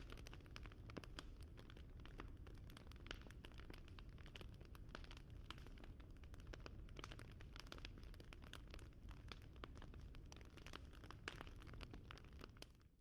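Wood fire crackling: irregular pops and snaps over a low rumble, fading out just before the end.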